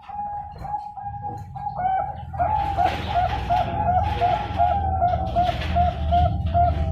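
Zebra dove (Bangkok-bred perkutut) singing: a rapid series of short cooing notes, about three a second, getting louder about two seconds in, over a steady low rumble.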